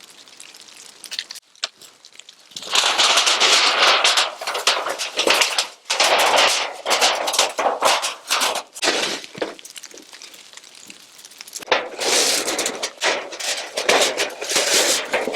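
Tent nylon rustling and crinkling as it is handled close to the microphone, in two long spells of loud irregular crackle starting about three seconds in and again near the end.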